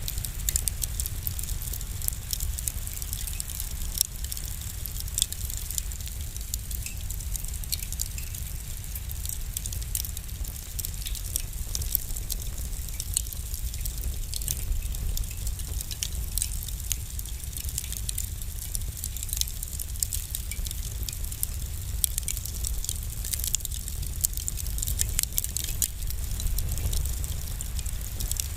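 Wood fire crackling in a fireplace: frequent sharp pops and snaps over a steady low rumble and hiss.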